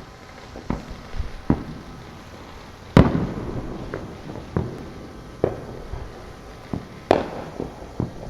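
Neighborhood fireworks and firecrackers going off: about a dozen irregular bangs and pops, the loudest about three seconds in and another strong one about seven seconds in, each trailing off in a short rumble.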